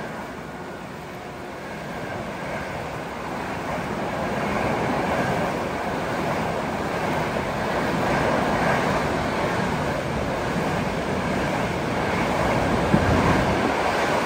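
Heavy monsoon rain hissing steadily on the corrugated platform roofs and tracks, mixed with the low rumble of a suburban electric local train pulling out. The noise swells a few seconds in and stays loud.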